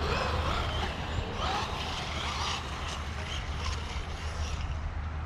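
Brushless 1/12 scale 4x4 RC car driving at a distance, its motor whine rising and falling as it speeds up and slows. A steady low rumble of wind on the microphone lies underneath.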